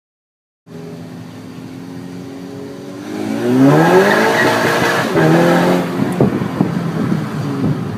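VW Golf GTI's turbocharged 2.0-litre four-cylinder through an APR RSC turbo-back exhaust: it cuts in running steadily, then accelerates with a rising pitch about three seconds in and holds high. Near the end the pitch drops and a string of sharp pops and crackles comes from the exhaust.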